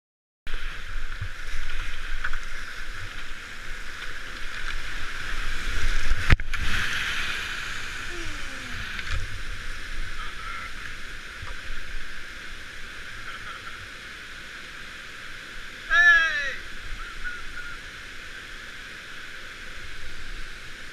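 Steady rush of river water around a kayak, with a sharp knock about six seconds in and a brief pitched call a little after two-thirds of the way through.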